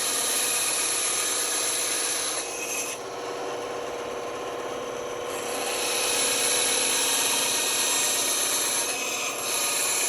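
Band saw running with its blade cutting through wood: a steady rasping hiss over a constant motor hum, lighter for a few seconds about two and a half seconds in.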